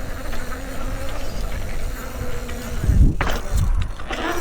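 Mountain bike's rear freewheel hub buzzing as the bike coasts, with tyre and trail noise and a thump about three seconds in.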